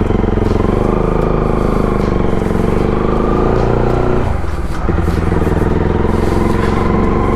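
Bajaj Pulsar NS200's single-cylinder engine running under way through an aftermarket Akrapovic full-system exhaust, pulling steadily. The engine note drops briefly about four seconds in, then picks up again.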